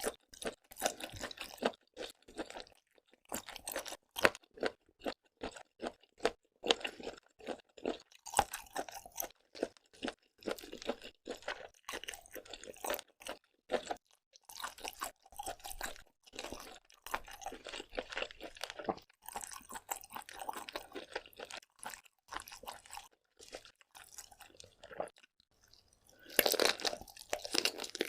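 Close-up mouth sounds of a person eating seafood: continuous chewing with many quick crunches and wet smacks. The sounds grow louder and denser near the end.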